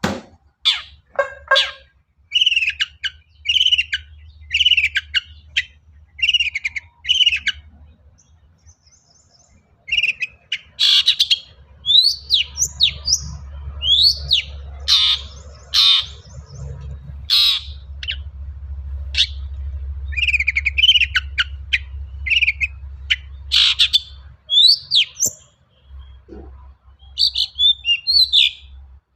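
Long-tailed shrike (cendet) singing: a run of short, evenly repeated calls at first, then after a short pause a varied string of chirps and harsh notes in its mimicking song. A steady low hum lies beneath.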